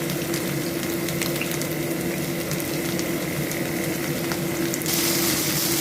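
Cornstarch-coated chicken pieces shallow-frying in very hot oil in a frying pan: a steady sizzle with fine crackling, growing louder about five seconds in.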